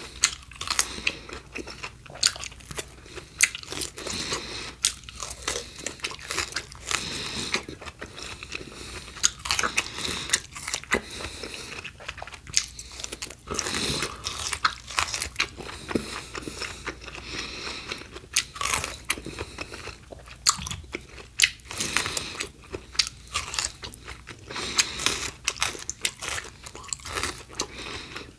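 Biting and chewing of crisp raw fruit and vegetables, close to the microphone: an irregular run of sharp, crisp crunches throughout.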